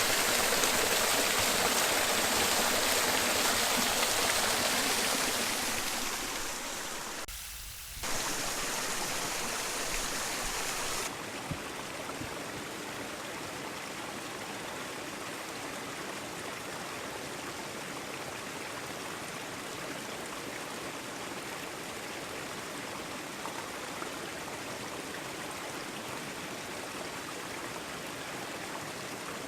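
Steady rush of water from a mountain stream, loud at first and fading after about six seconds. A few seconds later the sound settles to a quieter, even flow.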